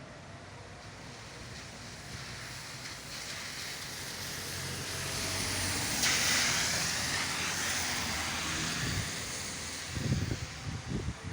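A vehicle passing on a rain-wet road: tyre hiss swells to a peak about six seconds in, then slowly fades. A few wind buffets hit the microphone near the end.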